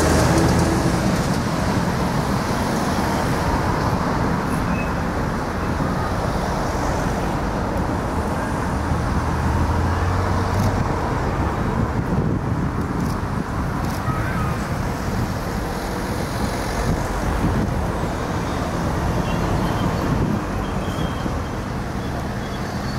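Long freight train of bogie tank wagons rolling along the rails, a steady rumble of wheels and wagons.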